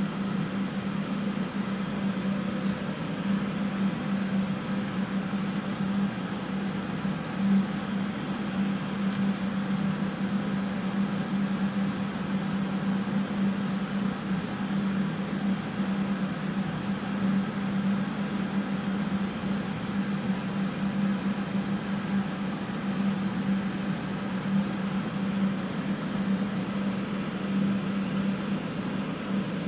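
Electric fans running steadily to clear solder fumes: an even rushing noise with a steady low hum.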